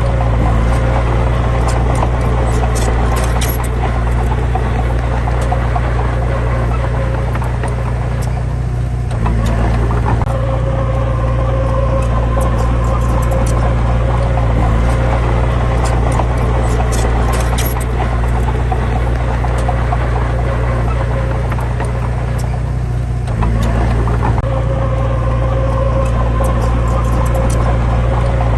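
Heavy diesel engine of a truck or bulldozer working steadily under load, its low note shifting about nine seconds in and again past twenty seconds.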